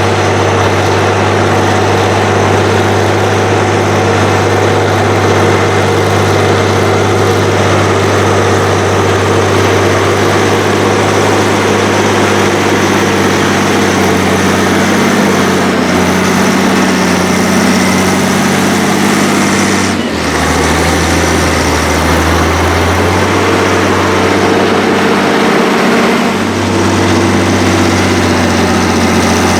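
Heavy diesel tractor engines working hard under load during deep plowing, running steadily. The engine note drops lower about twenty seconds in and comes back up some six seconds later.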